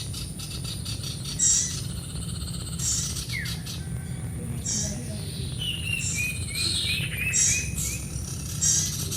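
Small birds chirping: short, high chirps repeat about every second and a half. A quick, falling twitter comes about six to seven seconds in, over a steady low rumble of background noise.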